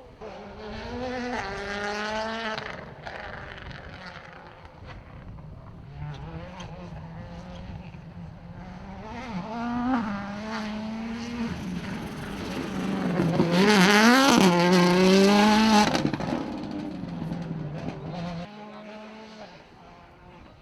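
Rally car engine revving hard and changing gear, the pitch climbing and dropping again and again. It grows loudest as the car passes close, about two-thirds of the way in, then drops off sharply as the driver lifts.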